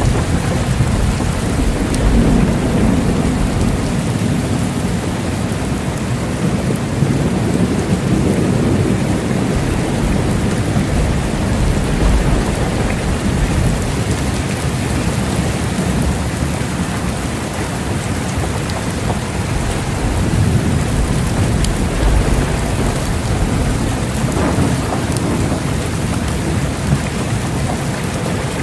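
Steady heavy rain with low rolls of thunder rumbling under it, swelling and fading several times.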